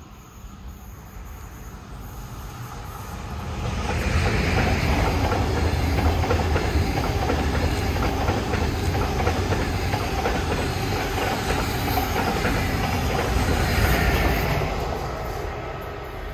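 Train passing: its rumble builds over the first four seconds, holds steady for about ten seconds, then fades near the end.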